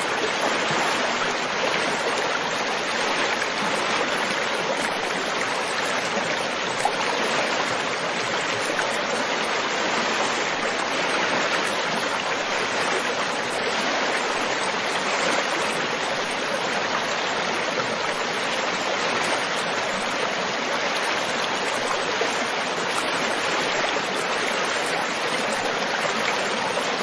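Flowing stream water, running steadily with an even rush that does not change.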